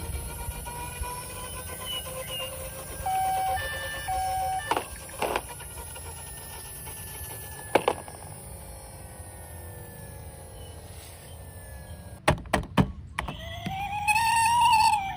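Electronic sound effects from toy vehicles: two short beeps about three seconds in and, near the end, a siren-like wail that rises and then falls, with sharp plastic clicks and knocks in between.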